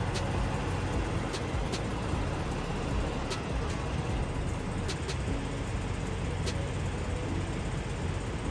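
Box truck on the move: a steady low rumble of engine and road noise, with a few scattered sharp clicks or rattles.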